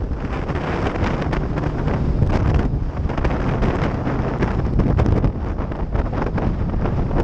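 Wind buffeting the microphone on a moving motorcycle, with the bike's running and road noise underneath.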